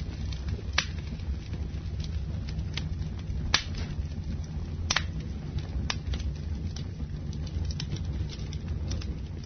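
Campfire burning: wood crackling and popping in sharp snaps over a steady low rumble, with a few louder pops about one, three and a half, and five seconds in.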